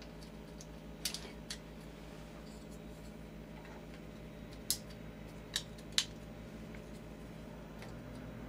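Plastic fluorescent lamp holders (tombstones) being pressed into a metal fixture bar, snapping into place with small clicks: a couple of light clicks about a second in, then three sharper clicks between about four and a half and six seconds in.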